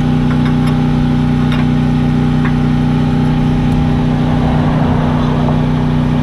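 An engine idling steadily, a constant low hum, with a few faint clicks of tools in the first seconds and some rougher handling noise a little past the middle.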